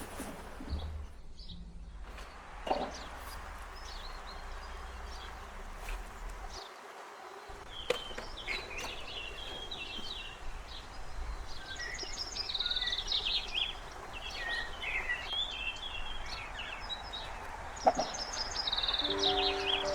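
Small birds chirping and twittering rapidly, busiest from about eight seconds in, over a low outdoor background hum, with a few sharp knocks.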